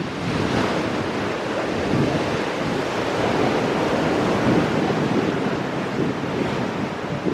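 Ocean waves breaking and washing over shoreline rocks in a continuous surging rush, with wind buffeting the microphone.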